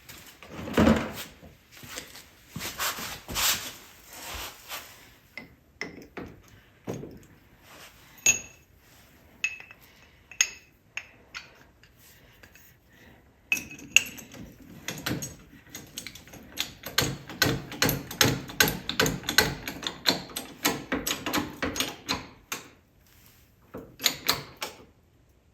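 Metal clinks and knocks of a steel bottle jack and hand tools being set in place against an ATV frame, then about nine seconds of rapid, repeated clicking and clanking from about halfway through, followed by a few more knocks.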